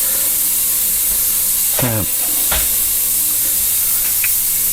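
A steady, loud hiss with a faint low hum under it, and a short falling tone about two seconds in.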